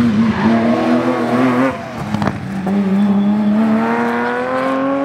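Rally car engine accelerating hard, revs climbing. About two seconds in it shifts up, the revs drop, and then they rise steadily again.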